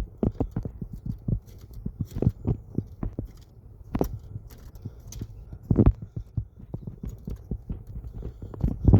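Footsteps walking on a trail: an uneven run of low thumps and knocks, several a second, with a few heavier steps.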